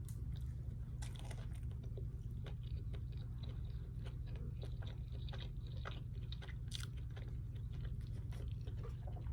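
A person chewing fast food close to the microphone, with many small irregular crunches and mouth clicks. A steady low hum runs underneath.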